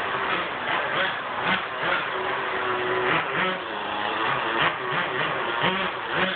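Small glow-fuel engine of a radio-controlled car running and revving, its pitch and loudness rising and falling as the throttle is worked.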